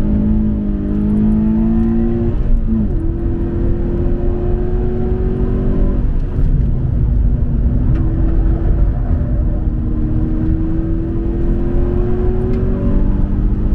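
Toyota 86's flat-four boxer engine pulling hard through the gears on a racetrack. Its note climbs steadily and drops sharply at each of about three upshifts, over a constant low road and wind rumble.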